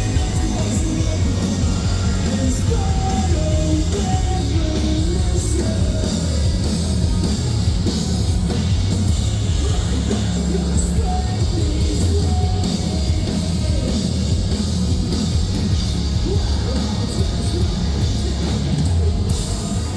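Metalcore band playing live at full volume: a dense, heavy rock sound with strong low end and a melodic line on top.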